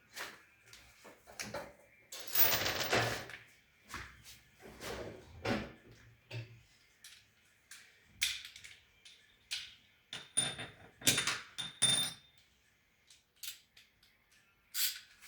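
Irregular knocks and clicks of metal parts and tools being handled during a washing machine repair, with a longer scraping stretch about two seconds in and short metallic clinks that ring briefly near the middle.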